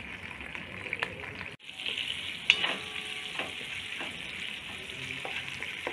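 Whole spices, pandan leaf and curry leaves sizzling in hot butter in a non-stick pot, with a spatula stirring them. The sizzle drops out briefly about a second and a half in and comes back louder, and there is one sharp knock about a second later.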